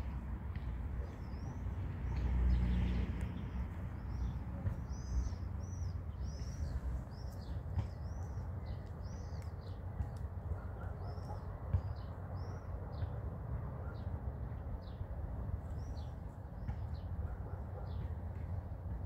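A small bird chirping over and over in short, high, arching notes, about one or two a second, over a steady low rumble that swells briefly near the start.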